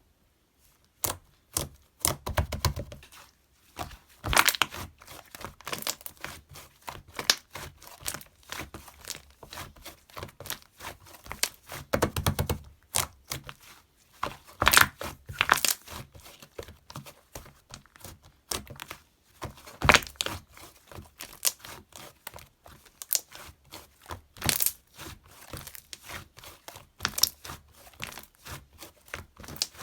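Close, irregular crinkling and rustling with many scattered clicks and light knocks, as of something crinkly being handled; louder flurries come a few times, around two, twelve, fifteen and twenty seconds in.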